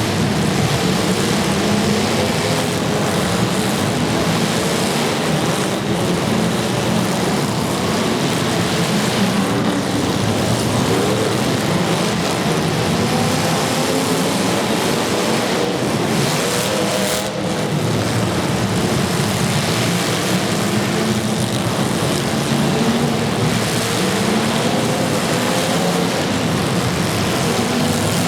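Several demolition derby cars' engines running and revving together, loud and continuous, their pitch rising and falling as they accelerate and back off.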